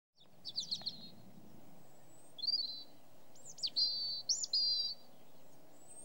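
A songbird singing several short phrases of quick chirps and trills, with pauses between them, over a faint steady outdoor background.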